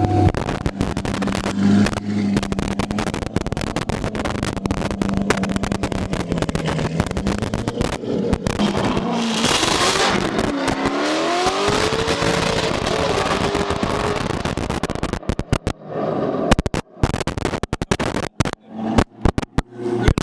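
Corvette C5 with a swapped-in 6.0-litre V8 running at a steady pitch, then revving up a little past halfway with a rising tone, just after a short rush of hiss. The sound turns choppy near the end.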